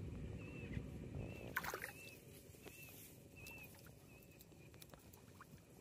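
Faint sloshing of water with a brief clatter of knocks about a second and a half in, while a faint high chirp repeats roughly every 0.7 seconds.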